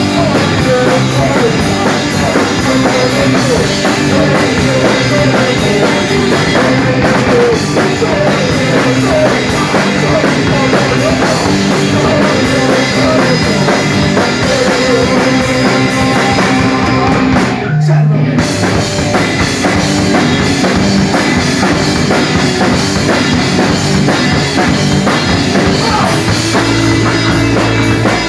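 Band playing rock music, with a drum kit and guitar. There is a brief break in the cymbals and drums a little past the middle, held by a single low note, before the full band comes back in.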